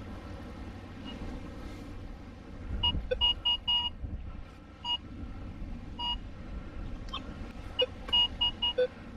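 Minelab Vanquish 440 metal detector beeping in short, repeated tones, singly and in quick runs of three or four, signalling a target still in the ground. A low rumble of background noise runs underneath.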